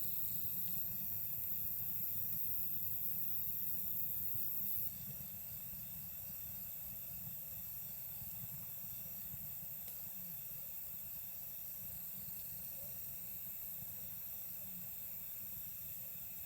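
Night insects such as crickets chirping steadily over the low rumble of a campfire. A very high-pitched insect buzz stops suddenly about five seconds in.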